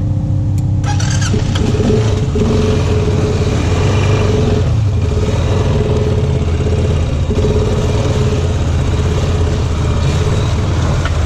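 Off-road vehicle engine running steadily on a muddy trail ride, picking up a little about a second in.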